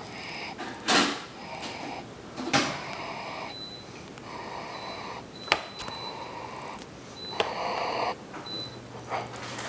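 A few sharp clicks and knocks, one every second or two, with rustling handling noise and brief high beeps between them.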